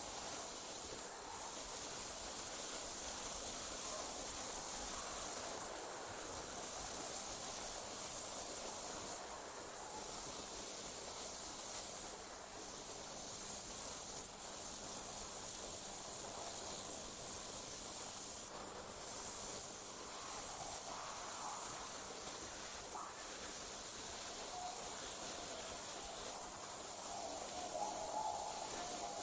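Night crickets trilling in a steady, high-pitched chorus that breaks off briefly every few seconds and starts again.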